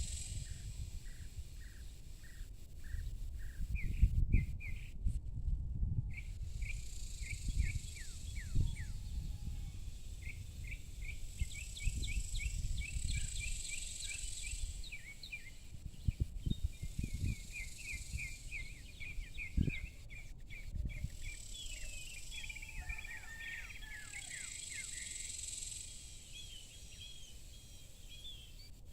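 Small birds chirping in quick runs of short notes, with an insect's high shrill buzz swelling and fading every several seconds, over a gusty low rumble like wind on the microphone.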